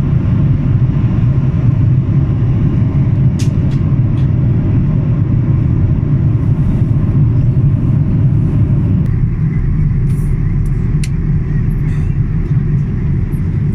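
Steady, loud low rumble of a Boeing 787 Dreamliner in motion, heard from inside the cabin. About nine seconds in, the upper part of the noise drops away, and a few faint clicks sound over it.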